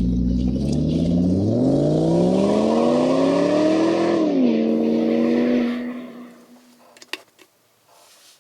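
Electric motor of a metal-on-metal oil friction test rig running with a steady hum. Its pitch climbs for a few seconds, drops, holds, and then dies away about six seconds in. A single sharp click follows.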